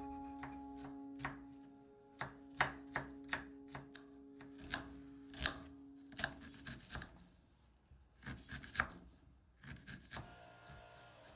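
Kitchen knife chopping food on a cutting board in irregular strokes. A held piano chord underneath dies away about seven seconds in.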